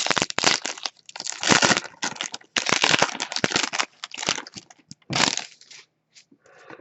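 Foil trading-card pack wrapper crinkling in a string of irregular bursts as it is handled and torn open, dying away about a second before the end.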